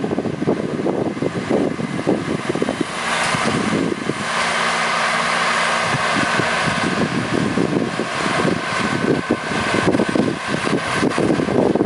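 Farm tractor engine running, louder and steadier in the middle with a clear engine tone, over a continual irregular rumble.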